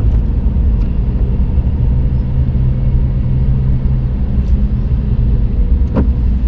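Car engine and road noise heard from inside the cabin: a steady low drone as the engine works hard on a steep climb. A short click sounds about six seconds in.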